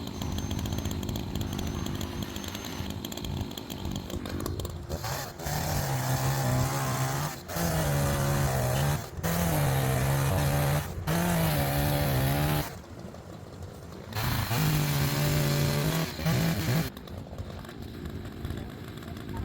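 Chainsaw bucking a log: the saw is run up to full throttle in about five bursts, its pitch sagging and recovering as the chain bites, with a brief lull between the last two. A lower, steady engine sound runs before and after the cutting.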